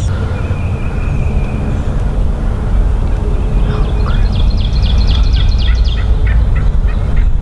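Wild birds calling in the open over a steady low rumble: a short held whistle early on, then from about four seconds in a quick, even series of chips, about six a second.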